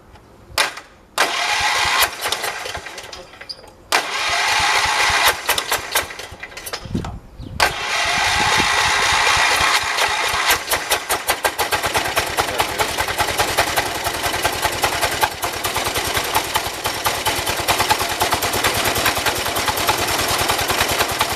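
1978 John Deere 208 lawn tractor's single-cylinder Kohler engine being started: the starter cranks, pauses briefly and cranks again, and the engine catches about eight seconds in and keeps running with an even, rapid beat.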